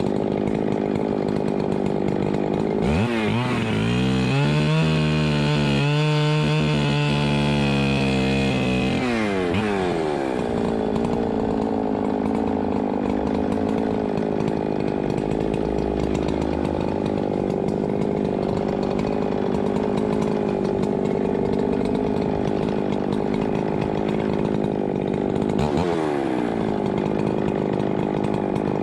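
Two-stroke chainsaw idling, revved up about three seconds in and held at high speed for about six seconds before dropping back to idle, then blipped once more briefly near the end.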